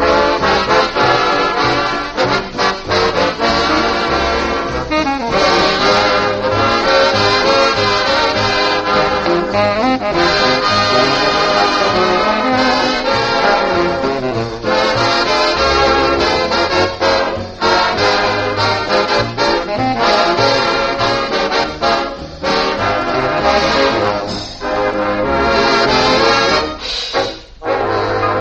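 Swing dance orchestra playing an instrumental passage of a ballad, brass to the fore, heard on an old radio broadcast recording with a dull, limited top end.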